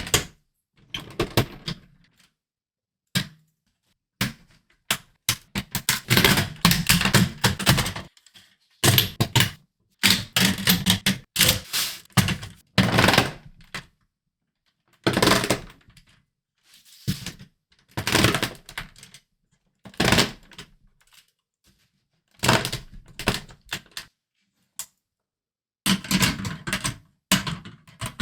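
Lego Technic plastic pieces clattering and clicking in rapid bursts, each lasting about one to two seconds, with silent gaps between them.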